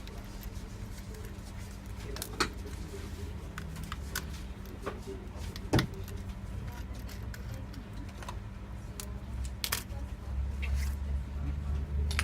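Scattered light clicks and small metallic taps from laptop parts and screws being handled during a hard drive swap, the sharpest click about six seconds in, over a steady low hum.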